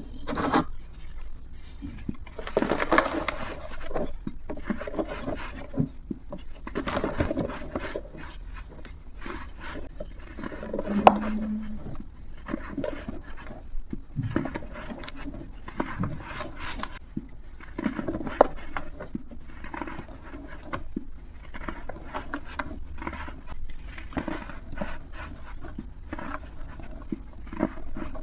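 A dry, brittle material crumbling and being crushed, with irregular crackling, rubbing and scraping and a few sharper snaps.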